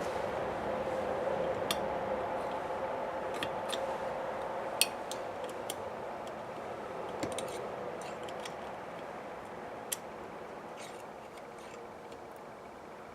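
Scattered light metallic clicks and taps of small carburetor parts and tools being handled during disassembly, one sharper click about five seconds in. Under them a steady hum slowly fades.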